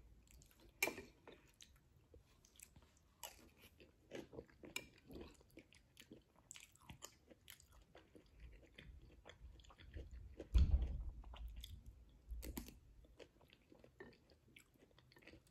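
Quiet, close-up chewing and mouth noises of someone eating a soft vegan shepherd's pie, with scattered light clicks throughout and a low thump about ten seconds in.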